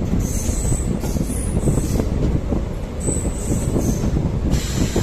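Diesel multiple unit train running with a steady low rumble, its steel wheels squealing high-pitched on the rails several times, each squeal lasting under a second.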